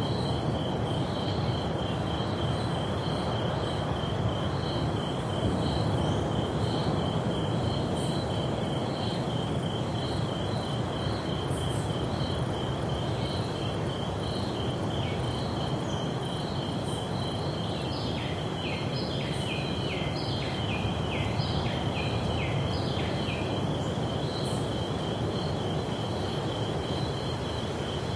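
Tropical rainforest ambience by the sea: an insect chirping in a steady rapid pulse over the constant rush of ocean surf. For several seconds after the middle, a run of short falling calls sounds over it.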